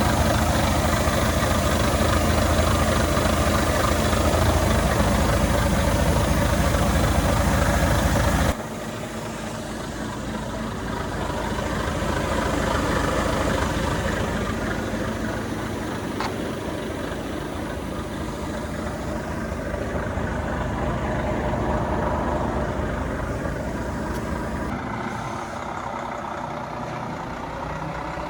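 Volvo FH 500 truck engine running at idle. About eight seconds in, the sound drops abruptly to a quieter engine sound that swells and fades a little.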